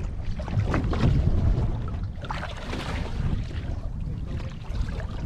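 Wind buffeting the microphone aboard a boat: a low, uneven rumble.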